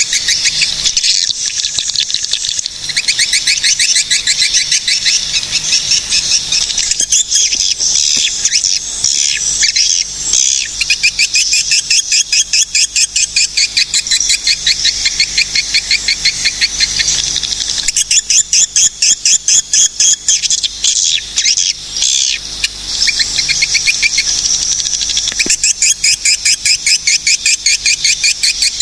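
Swiftlets calling: a continuous stream of rapid, high chittering chirps repeating several times a second, with a few brief breaks.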